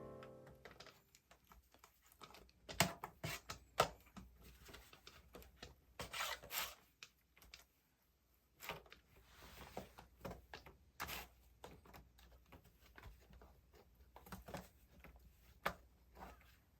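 Quiet, irregular handling noises: scattered light knocks and clicks with short rubbing and rustling sounds, as the tail of background music fades out at the start.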